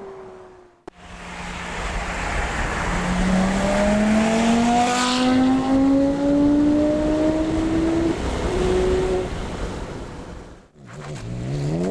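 Porsche Carrera GT's V10 through an AWE Tuning exhaust, accelerating hard: the engine note climbs steadily in pitch for several seconds, dips briefly at an upshift, then fades away. After a cut near the end, another acceleration starts with a sharp rise in pitch.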